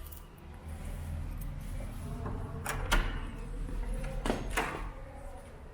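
A door being handled, with a few sharp knocks and clicks. Two come close together about three seconds in, the second the loudest, and two more about a second later.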